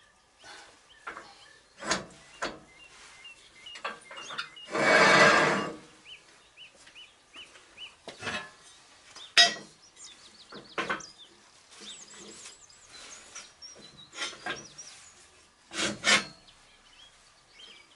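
Workshop handling noise from the lathe-bed parts and shims being moved into place: scattered knocks and clunks, with one loud scraping rub lasting about a second, about five seconds in.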